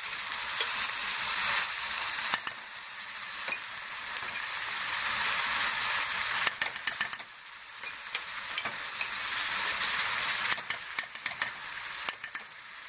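Chicken livers and onions sizzling in olive oil in a pot, a steady hiss, with scattered clicks of a spoon against the pot as tomato sauce is added and stirred, bunched about halfway through and near the end.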